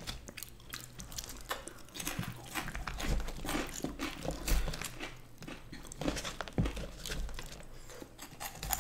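Close-miked chewing and crunching of fries and Flamin' Hot Cheetos by two people eating, with crisp crackles and small clicks scattered throughout.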